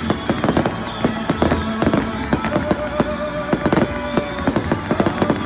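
Fireworks display: a rapid run of bangs and crackles from aerial shells, several a second, with a song playing underneath.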